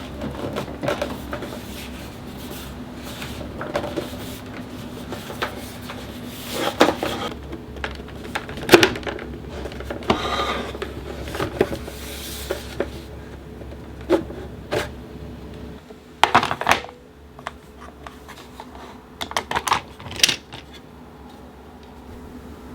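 Irregular clicks, taps and knocks of hard plastic parts of a Dyson AM06 fan being handled during disassembly, over a steady low hum that drops away about two-thirds of the way through.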